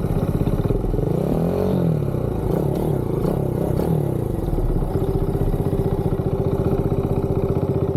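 Kawasaki KLX110 dirt bike's small single-cylinder four-stroke engine running while riding. It revs up and eases off a couple of times in the first few seconds, then holds a steady pitch.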